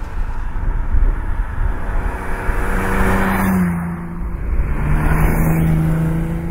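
Ferrari 365 GTB/4 Daytona's 4.4-litre V12 running as the car comes up and passes close by. Its note swells and then drops in pitch as it goes past, about three and a half seconds in, then runs steadily as the car drives away.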